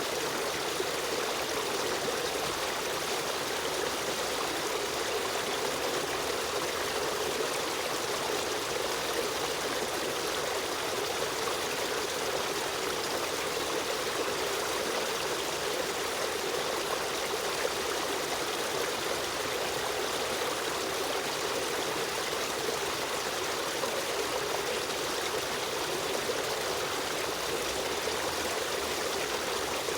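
Running water of a river stream, a steady flowing and trickling rush with no breaks.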